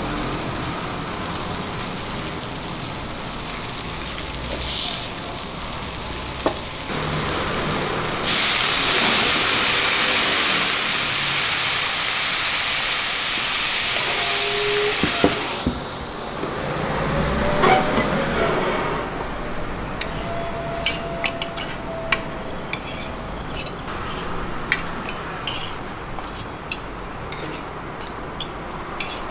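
Giant garlic chive boxes pan-frying in oil in a wide flat griddle pan. About eight seconds in, water from a hose hits the hot pan and a loud steam hiss starts suddenly, lasting about seven seconds before it dies down. After that comes quieter sizzling with scattered sharp crackles and clicks.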